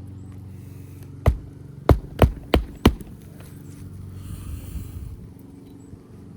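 Roofing hatchet (mag hatchet) striking a roofing nail into a replacement asphalt shingle: one sharp blow, then four quicker blows about three a second, driving the nail in flush. A steady low hum runs underneath.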